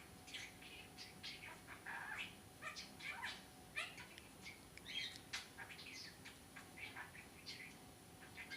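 Budgerigar chattering: a continuous run of short chirps, squeaks and warbles.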